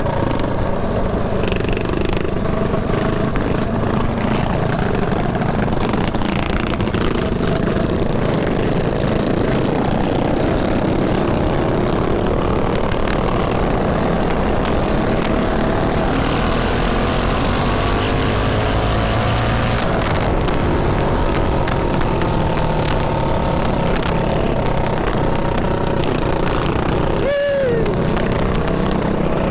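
Small mini bike engines running under way over heavy wind noise on the helmet-mounted mic. Engine pitches rise and fall as the bikes speed up and ease off.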